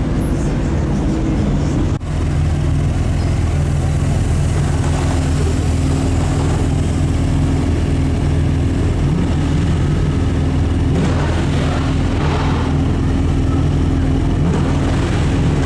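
Sports car engine idling with a steady low rumble, with a brief dropout about two seconds in.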